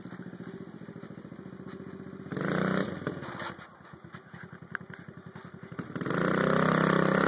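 Small motocross dirt bike engine running. It revs up briefly about two seconds in, drops back, then gets louder again from about six seconds in and holds there.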